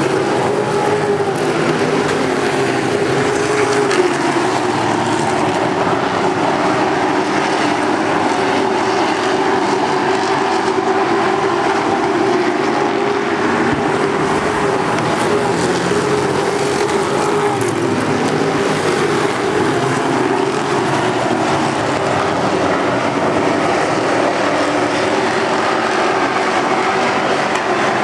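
NASCAR race trucks' V8 engines running at speed on the track, a loud continuous drone whose pitch wavers slightly without letting up.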